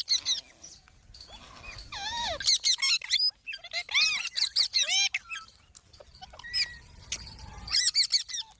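A parrot giving a rapid series of short, high-pitched squeaks and chirps, each rising then falling in pitch, in bursts with short pauses between.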